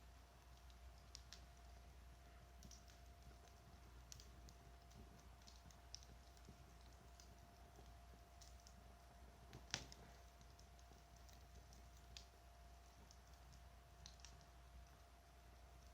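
Wood campfire crackling faintly: small irregular pops and snaps scattered throughout, with one louder pop about ten seconds in.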